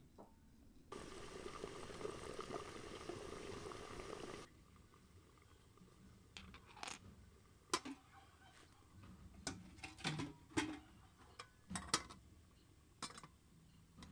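Liquid pouring steadily for about three and a half seconds, then a scatter of sharp clicks and knocks.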